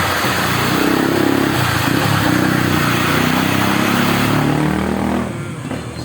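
A motor running loudly with a rushing noise, its pitch shifting up and down, then dying away about five seconds in.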